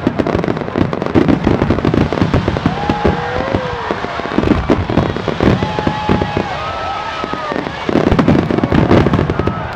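A wide starmine fireworks finale: a dense, continuous barrage of shells bursting and crackling, loudest near the end.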